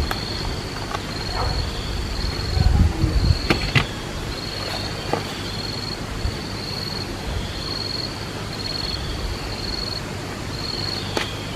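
An insect chirping in a steady rhythm of high-pitched trills, a little more than one a second, over a background hiss, with a few sharp clicks.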